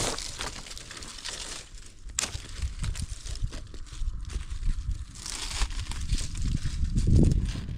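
Irregular crinkling and rustling of handled material, with scattered sharp clicks and a louder rustle near the end.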